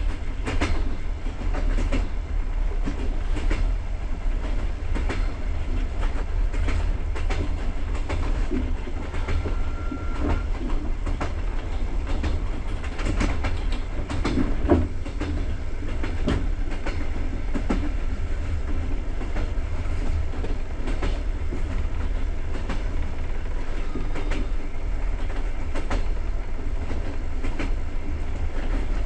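Passenger train running on the rails: a steady low rumble of the wheels with frequent clicks and knocks over rail joints. A brief high tone sounds about ten seconds in.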